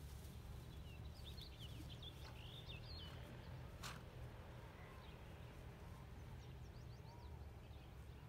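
Faint bird chirps in two short runs, over a steady low rumble, with one sharp click near the middle.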